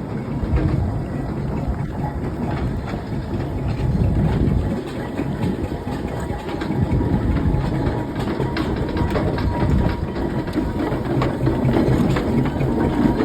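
Steam traction engine running: a steady low mechanical rumble with scattered light clicks and knocks.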